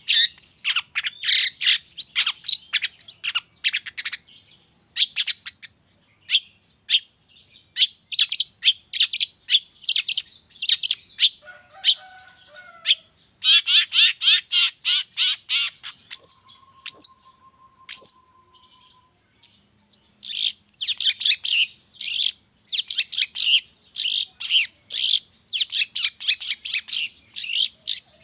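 Long-tailed shrike (cendet) singing: runs of rapid, sharp chattering notes broken by short pauses, with a few lower whistled notes and one held whistle near the middle.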